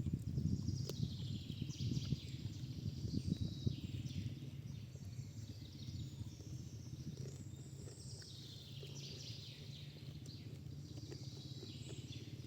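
Outdoor nature ambience: high bird calls falling in pitch come twice, over a low steady rumble with scattered crackles that is busiest in the first few seconds.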